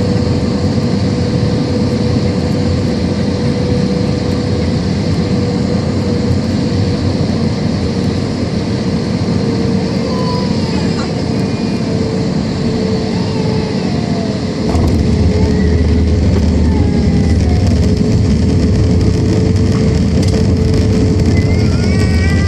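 Jet engines of an Airbus A320-232 (IAE V2500 turbofans) running: a steady whine that slowly sinks in pitch over a broad rumble. A deeper rumble comes in suddenly about 15 seconds in, with short chirping glides over the top.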